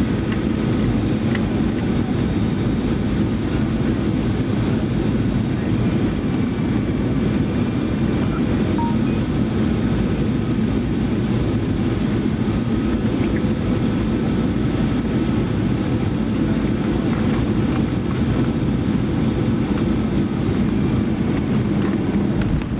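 Boeing 737-900ER's CFM56 jet engines and airflow heard as steady cabin noise with a high whine, through final approach and touchdown. Near the end the high whine drops slightly in pitch.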